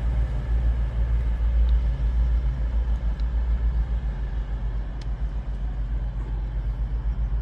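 Class 222 Meridian diesel multiple unit idling at the platform: a steady low engine rumble with an even hum, easing slightly about halfway through.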